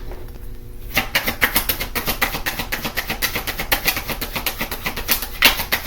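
A deck of tarot cards being shuffled by hand: a quick run of crisp card slaps and flicks, several a second, starting about a second in.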